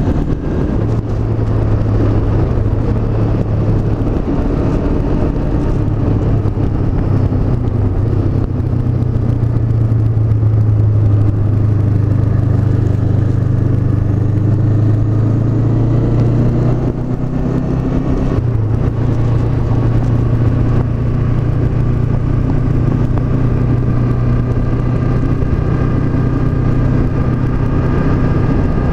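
Honda CB500X's parallel-twin engine running under way, its note climbing slowly through the middle, dropping briefly about two-thirds through, then holding steady.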